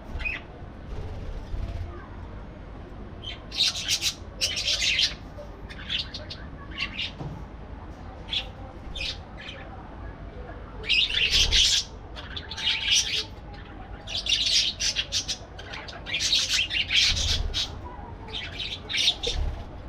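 Parakeets chirping and chattering in short, high-pitched bursts, with the calls coming in clusters every second or two.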